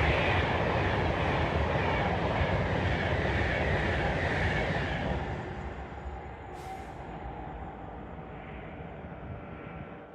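Train passing on the rails, loud at first and fading away from about five seconds in, with a short hiss past the middle.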